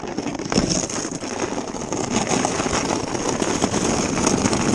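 Sled sliding fast over snow: a steady scraping hiss and rumble with wind buffeting the microphone, slowly growing louder.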